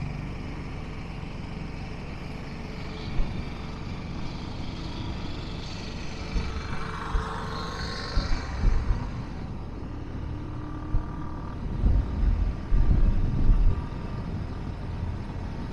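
Motorcycle riding along a road, its engine drone mixed with wind rumble on the microphone. The wind swells in louder gusts around the middle and again near the end.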